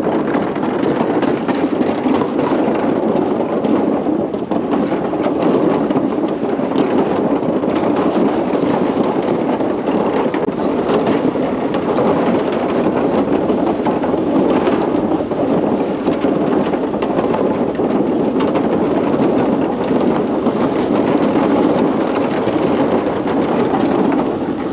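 Steady wind noise buffeting the microphone of a camera carried on a moving bicycle.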